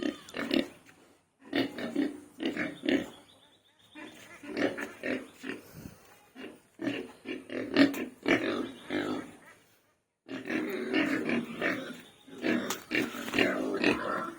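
Pigs grunting and calling over and over in short bouts, with two brief silent gaps.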